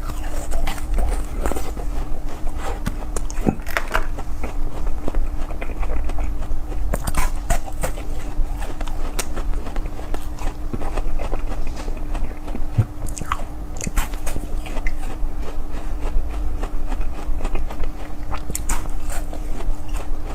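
Close-miked ASMR eating: biting and chewing with irregular sharp crunches and wet clicks, over a steady low hum.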